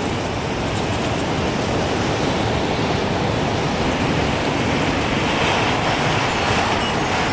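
Gusting wind, a steady rushing noise that swells in the last couple of seconds, with faint high tinkles of a wind chime starting near the end.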